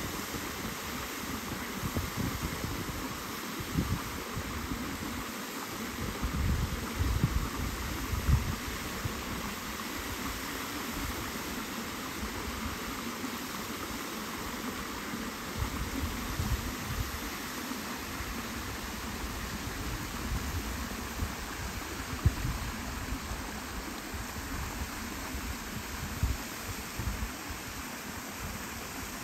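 Rushing water, a steady even hiss, with irregular low gusts of wind buffeting the microphone.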